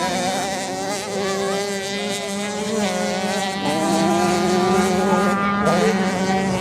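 Several motorcycle engines running at once in a steady, buzzing drone, their pitches shifting up and down as the throttles change.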